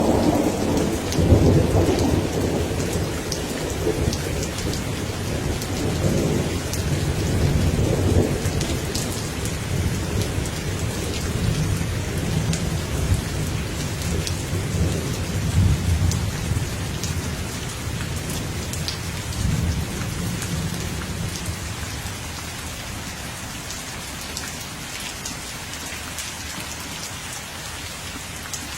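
Steady rain falling with a long rolling rumble of thunder, strongest in the first seconds and dying away over the second half, leaving the rain on its own.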